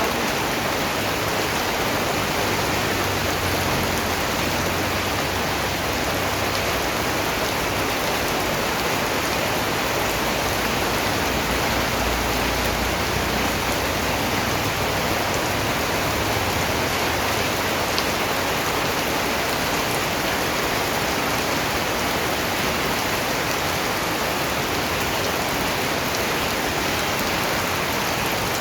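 Steady rain falling on a surface, a dense, even hiss of drops with no single drop standing out.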